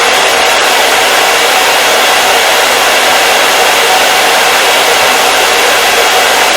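Hair dryer running steadily on a constant setting: an even, loud rush of blown air with a faint steady motor tone, no change in pitch or level.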